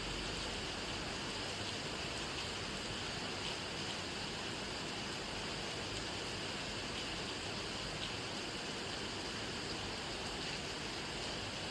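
Steady rainfall, an even hiss with a few faint ticks of single drops.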